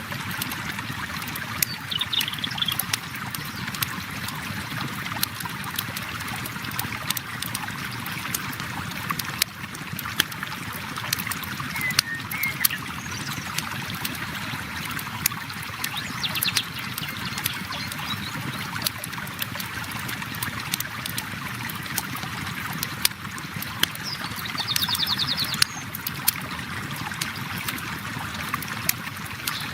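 River water flowing steadily with a campfire crackling over it in frequent sharp pops, and a few brief high bird chirps here and there.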